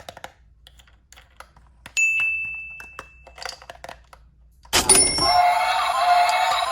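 A few faint clicks, then a single bell-like ding about two seconds in that rings for over a second and fades. Music with several held tones starts just before the end.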